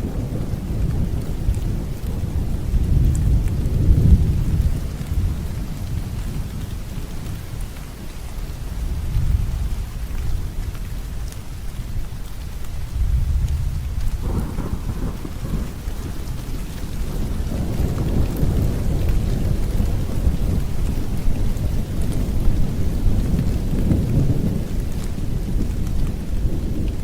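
Distant thunder rumbling continuously over steady rain, the low rolling swelling and fading in long waves, strongest about four seconds in, again around the middle, and near the end.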